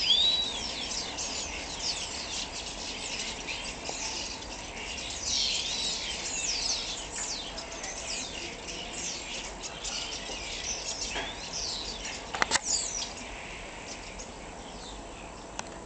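Many small birds chirping and twittering together, a dense stream of short, high overlapping calls. A few sharp clicks come about twelve seconds in.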